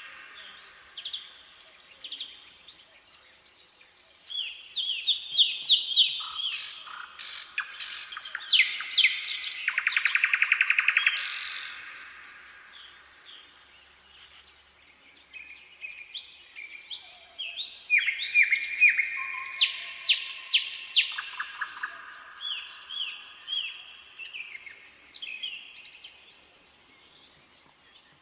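Nightingale singing in varied phrases of rapidly repeated notes and fast trills, separated by short pauses. The loudest part is a rapid trill about ten seconds in.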